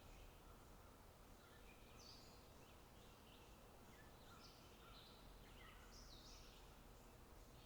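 Faint songbirds chirping: short, quickly falling high notes, several at a time, over a steady low background.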